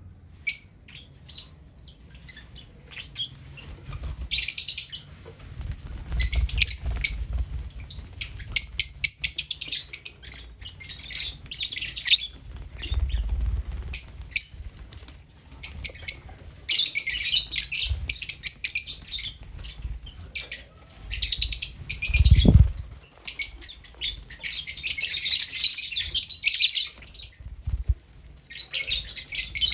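Lovebirds chattering in dense runs of short, high-pitched chirps that come and go in clusters, busiest in the second half. Low rumbling and one heavy low thump about two-thirds of the way in run beneath them.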